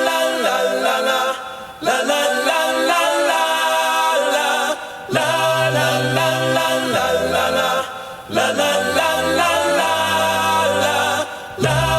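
Voices singing a cappella in several-part harmony, in phrases a few seconds long with short breaks between them; a low bass part enters about five seconds in.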